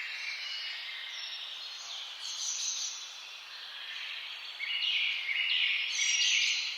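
Several songbirds singing and chirping at once, with overlapping phrases; the song grows louder about two-thirds of the way through.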